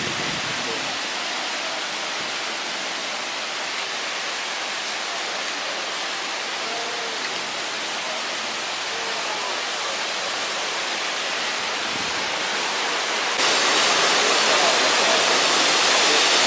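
Steady rush of flowing water, an even hiss with no rhythm. About 13 seconds in it suddenly gets louder and brighter.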